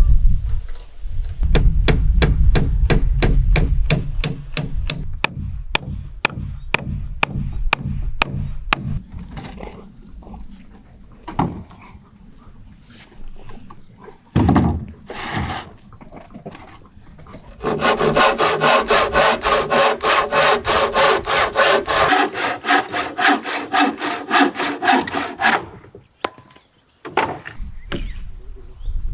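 Hand saw cutting through wood in two bouts of steady back-and-forth strokes, the second bout faster and louder.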